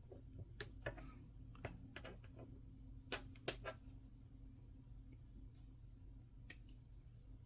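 Faint, scattered sharp clicks of small plastic model-kit parts and runners being handled and worked on, with two louder snaps a little after three seconds in, over a low steady hum.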